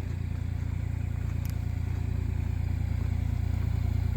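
Kubota KX040 mini excavator's diesel engine running steadily at idle, a low even hum that grows slightly louder.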